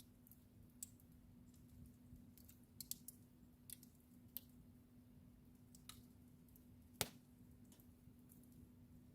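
Wood fire in a fireplace crackling softly: scattered sharp pops and ticks, with one louder pop about seven seconds in.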